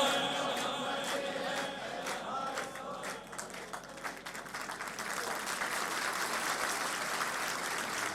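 Audience applauding, many hands clapping, as a chanted recitation ends; the chanting voice dies away at the start.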